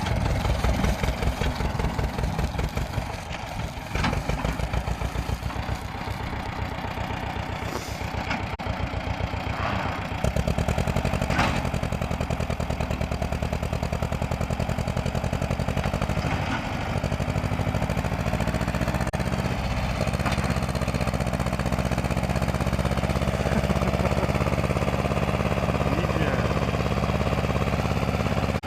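Ursus C-330 tractor's two-cylinder diesel engine running with a steady, even chugging beat. It gets louder about ten seconds in and then runs steadily, with a few sharp knocks in the first dozen seconds.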